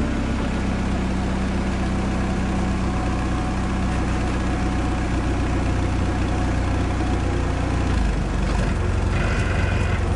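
A vehicle engine idling steadily with a low, even hum; its note shifts about eight seconds in.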